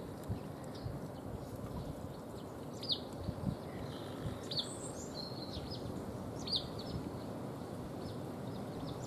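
Small songbirds calling at feeders: short, high, downward chirps repeated every couple of seconds, with a brief higher trill about halfway through, over a steady low background rumble.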